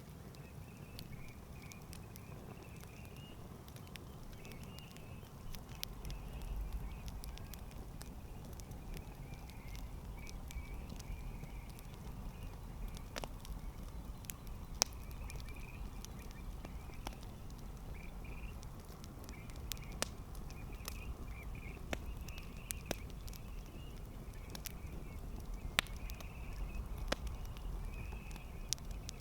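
Campfire crackling, with scattered sharp pops over a low rumble that grows stronger about six seconds in. A faint, continuous chatter of animal calls runs behind it.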